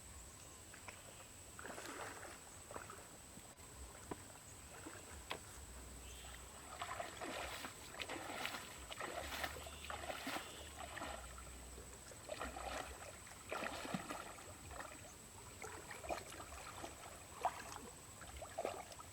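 Shallow water splashing and sloshing in irregular bursts, as from wading or working by hand in flooded rice-field water, busiest through the middle. A faint steady high whine runs underneath.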